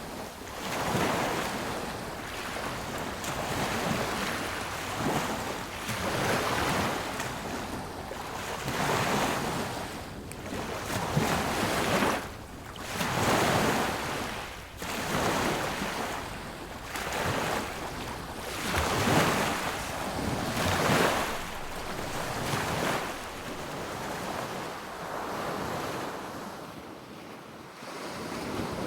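Sea waves breaking on a beach, the surf swelling and washing in every two to three seconds, then easing off near the end.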